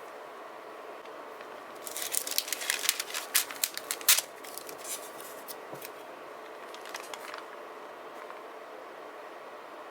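Crisp crackling of paper or a sticker sheet being worked by hand: a dense run of small sharp clicks for about two seconds, then a few faint ones later.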